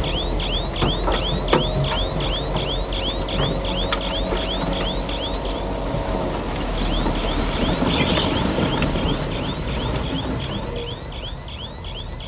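Heavy tracked machinery running with a steady low engine rumble. Over it, a high squeal repeats about three times a second and breaks off briefly in the middle. A sharp metal clank comes about a second and a half in.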